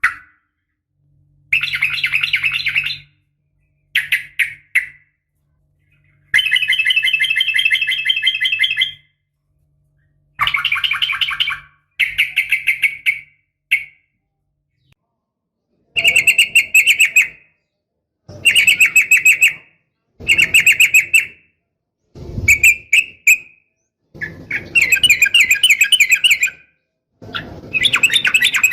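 Yellow-vented bulbul (trucukan) singing in repeated bursts of rapid chattering trills. There are about eleven phrases, each one to three seconds long, with short gaps between them.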